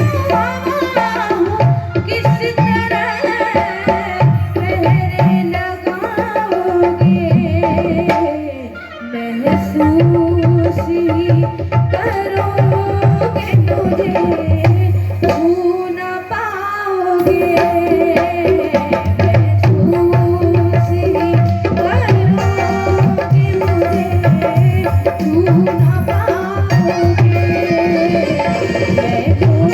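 Instrumental devotional music: tabla playing a steady beat under a sustained, wavering melody line. The music thins out briefly about nine and sixteen seconds in.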